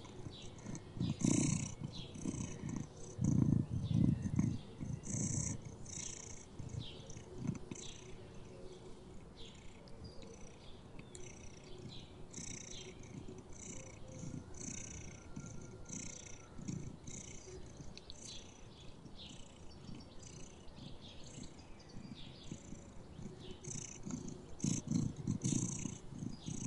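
A cat purring in a steady rhythm of pulses, louder for a few seconds near the start and again near the end.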